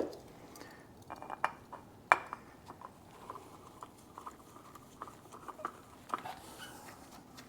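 Scattered light clicks and small metal clinks of spin-on oil filters being handled by hand and the new filter offered up to its mount, with a sharp click right at the start and another about two seconds in.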